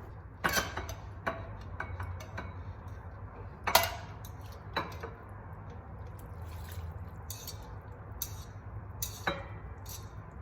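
Scattered light clinks and knocks of objects being handled, the loudest about four seconds in, over a low steady hum.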